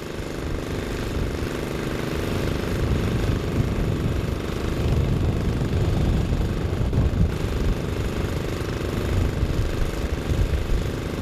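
Engines running steadily: a constant machine hum over a low rumble.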